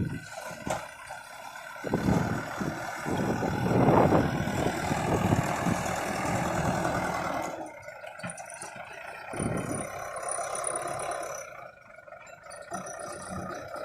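JCB 3DX backhoe loader at work, its engine running with irregular clattering noise, loudest for several seconds early on and quieter after about seven and a half seconds.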